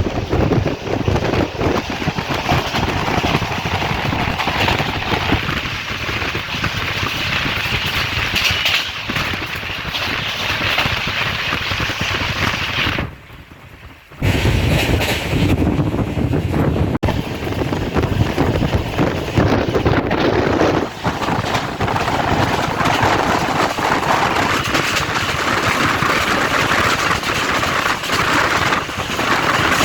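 A moving express train running, with a steady rumble and rapid rattling clatter. The sound drops out briefly about halfway through, then carries on.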